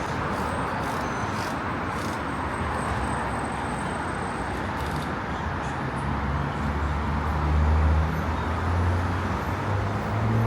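Steady road traffic noise, with a low engine hum that grows louder from about six seconds in.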